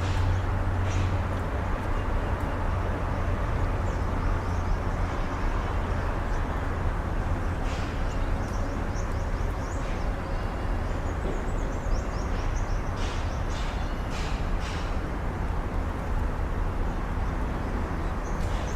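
Outdoor ambience: a steady low rumble with scattered short, high bird chirps, a small cluster about two thirds of the way in.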